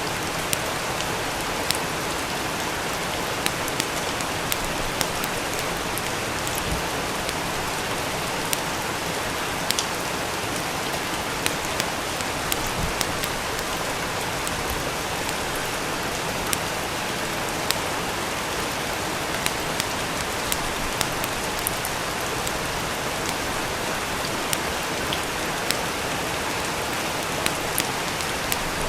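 Steady rain falling, with scattered sharp crackles throughout.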